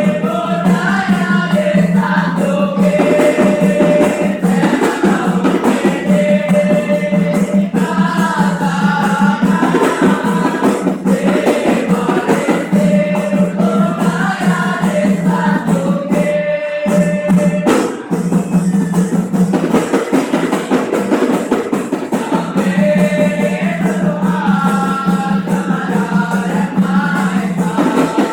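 Music: several voices singing a melody together over a steady low accompaniment, with a brief break about sixteen seconds in.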